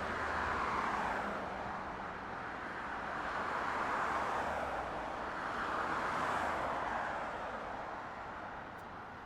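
Jet aircraft engine noise, a steady rush that swells and fades in slow waves, then dies away near the end.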